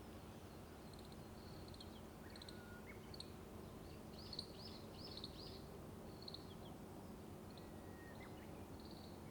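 Small wild birds chirping, with a quick run of high chirps about four to five seconds in and a few thin whistled notes, over a steady low rumble of road traffic.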